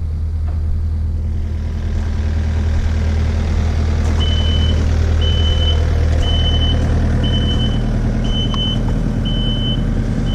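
Kubota KX057-5 excavator's diesel engine running steadily, heard from inside the cab. From about four seconds in, a high warning beep sounds seven times, roughly once a second.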